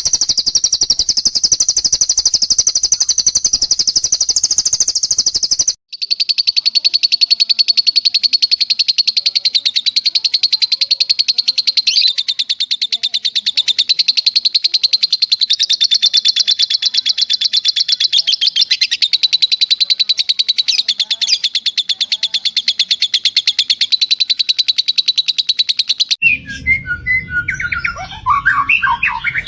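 A songbird's long, very fast, unbroken trill. It cuts off abruptly about six seconds in and resumes at a slightly lower pitch for some twenty seconds. Near the end it changes to varied whistled song phrases over a low, steady rush of running water.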